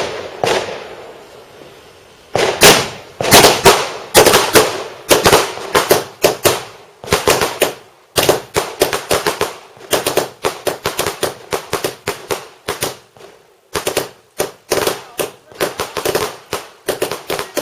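Fireworks going off: one bang at the start, then from about two seconds in a rapid, uneven run of sharp cracks and bangs, several a second, with a couple of short pauses.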